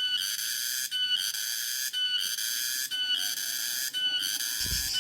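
Cicadas singing: a high, steady buzz that breaks off for a moment about once a second and starts again.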